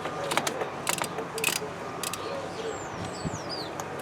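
Hand tools clinking against metal engine parts in sharp, irregular clicks, about seven of them in the first two seconds, as bolts are worked loose while stripping an engine.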